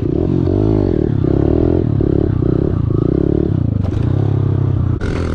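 Small four-stroke pit bike engine being ridden hard, revving on and off the throttle so its pitch dips and climbs again and again, then settling to a steadier, lower note near the end.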